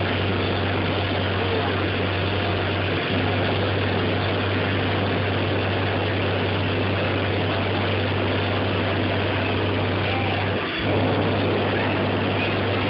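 Car audio subwoofers playing a steady, very loud deep bass tone that drops out briefly about three seconds in and again near the end, with a dense rattling noise over it.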